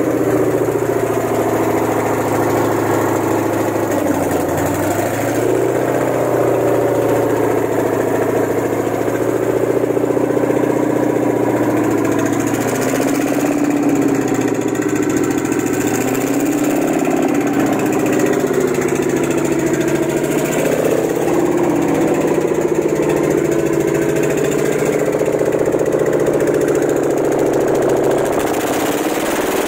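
Chrysler 5.7 L HEMI V8 idling steadily during a start-up test run, with a slight wavering in its note.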